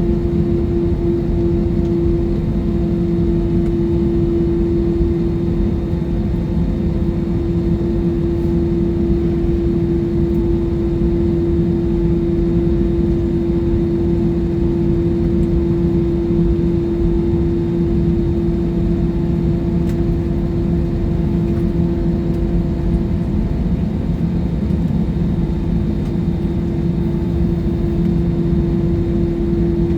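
Airliner cabin noise in flight: steady rumble of the jet engines and airflow, with a constant hum from the engines running on.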